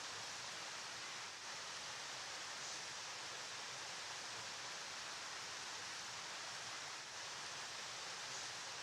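River water flowing, a steady rushing hiss without breaks.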